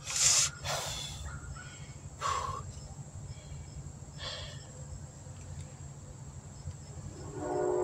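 Steady high chirring of crickets, with a few short scraping handling noises from the brake caliper wind-back tool in the first few seconds. About seven seconds in, a steady pitched tone with several overtones starts, like a distant vehicle or train horn.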